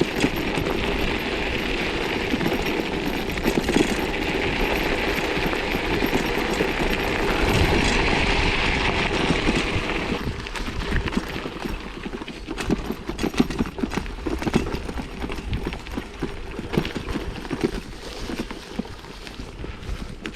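1987 Stumpjumper mountain bike riding a dirt trail: a steady rush of wind and tyre noise, then from about halfway on a busier run of irregular crunches and rattles.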